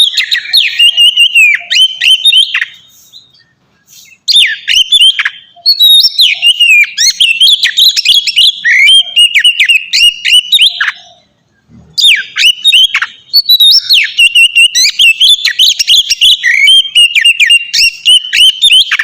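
Oriental magpie-robin (kacer) singing its full, open song: long, rapid phrases of varied whistles and chirps. The song breaks off twice briefly, about three and about eleven seconds in.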